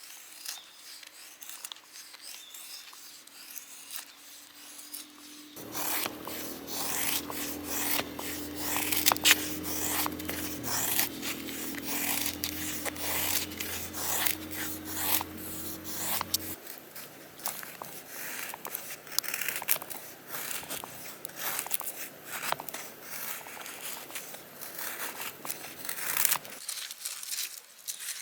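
Close, irregular scraping and rubbing of handled objects. It starts about five seconds in and stops near the end, with a steady low hum under it that shifts in pitch about halfway through.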